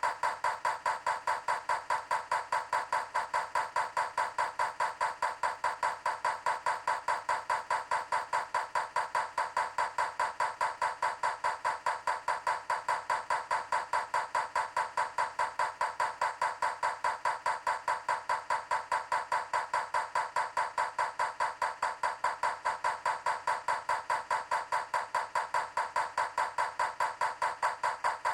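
Steady, evenly spaced ticking, about three a second, with no change in pace or strength.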